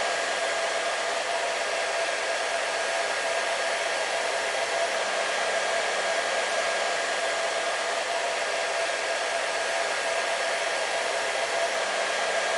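Hair dryer running steadily on one setting: an even rush of blown air with a steady motor whine.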